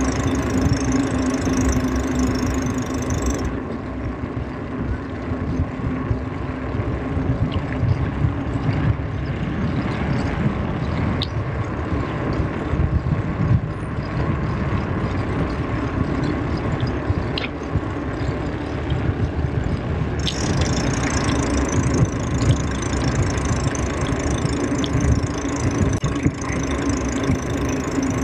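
Wind buffeting the microphone during a bicycle ride, a constant low rumble. A steady hum with a high hiss fades out a few seconds in and comes back after about twenty seconds.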